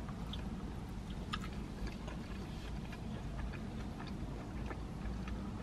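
A person chewing a bite of pan-fried chicken pot sticker, faint scattered wet mouth clicks over a steady low hum.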